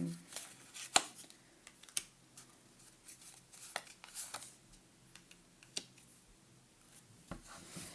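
Tarot cards being handled: a few scattered light clicks and taps, one sharper click about a second in.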